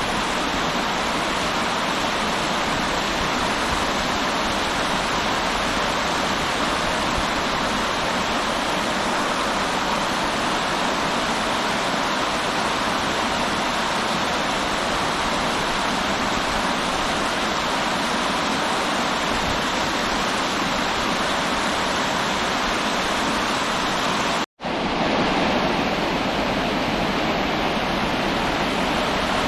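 River water rushing steadily. The sound cuts out for an instant about 24 seconds in and comes back slightly louder.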